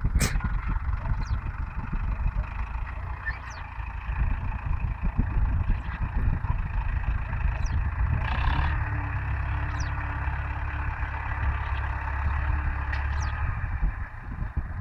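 UTB Universal U650 tractor's four-cylinder diesel engine running steadily under load while pulling a plough, heavier for a few seconds past the middle. There is a sharp click right at the start.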